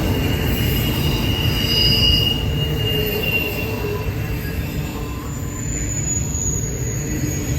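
Norfolk Southern freight train rolling past with a steady low rumble, its wheels squealing on the rail in thin high tones that come and go.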